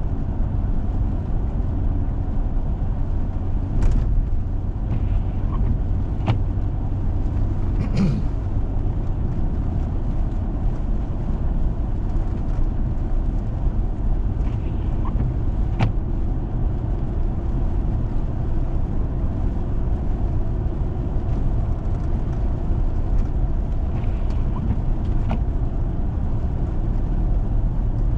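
Steady low road and engine drone of a 4x4 driving on a snow-covered road, with a few brief sharp clicks or knocks scattered through it.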